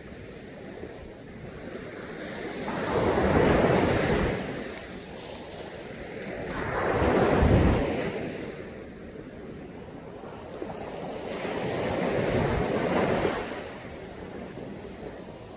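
Caribbean Sea surf: waves breaking and washing up on the beach in three slow swells about four to five seconds apart, the middle one the loudest.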